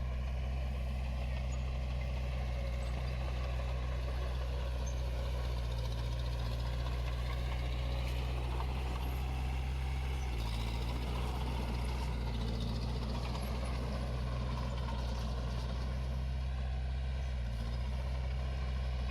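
Diesel engine of a Komatsu D21 small bulldozer running steadily under work, its note shifting about halfway through and again near the end, with a faint whine that slowly rises and falls in pitch.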